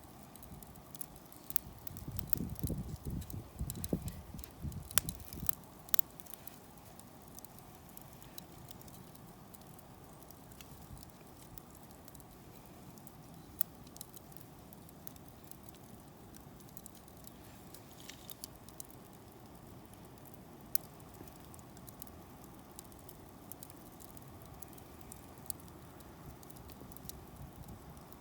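Wood fire crackling in a homemade cooking stove, with scattered sharp pops over a steady low hiss. The pops are busiest in the first few seconds, where there are also some low rumbling thumps.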